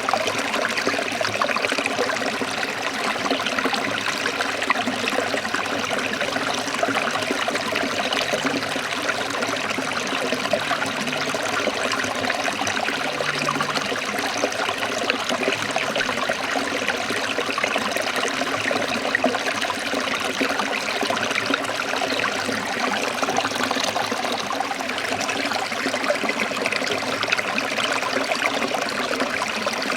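Small stream of water trickling and babbling over rocks, steady and unbroken.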